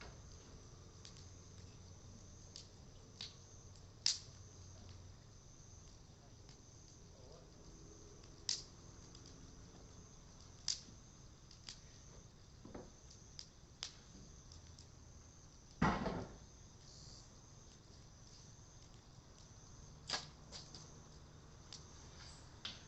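Cedar wood fire crackling, with sharp pops every few seconds and one louder, fuller pop about two-thirds of the way through. A steady high insect chirring runs underneath.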